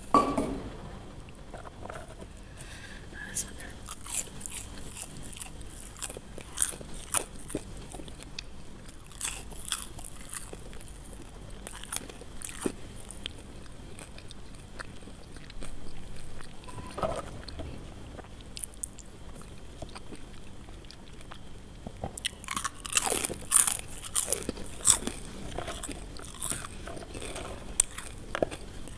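Crispy fried potato fries being bitten and chewed close to the microphone: irregular sharp crunches, thickest in a flurry a little over three quarters of the way through.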